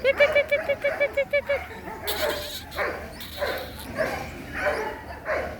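Baby birds calling: a rapid run of about a dozen short, even notes in the first second and a half, then scattered harsher calls.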